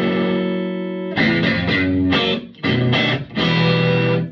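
Electric guitar played through a Vintage Sound Amp's tweed channel with slight overdrive: one chord rings for about a second, then a run of strummed chords follows and is cut off sharply at the end.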